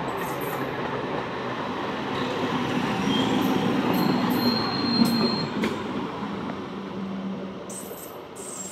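Electric multiple-unit local train passing close at speed: a continuous rumble of steel wheels on the rails that builds to a peak, with sharp clicks and a brief high whine near the middle, then fades away as the train goes by.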